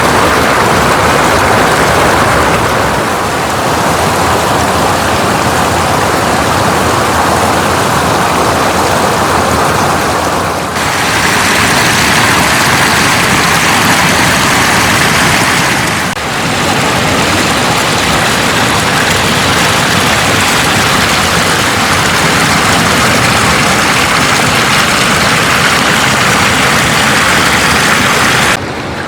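Loud, steady rush of floodwater flowing across a road, an even hiss-like wash with no distinct events. The sound shifts abruptly about 11 and 16 seconds in, where the footage is cut from one clip to the next.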